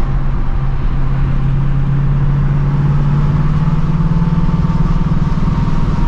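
2024 Ford Mustang GT's 5.0-litre V8 with the stock active exhaust, running while driving with a steady drone. Its pitch rises slowly through the middle and drops away near the end.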